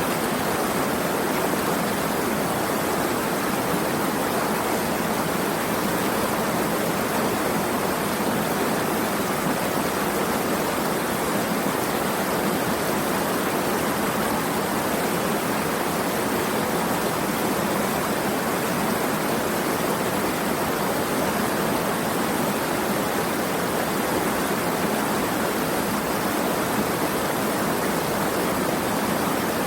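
Steady rushing of flowing water, an even unbroken hiss with no single splashes or drops standing out.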